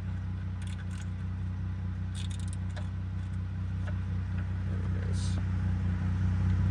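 Steady low hum of an idling engine, with scattered light metallic clicks and clinks of hand tools working a bolt under the car.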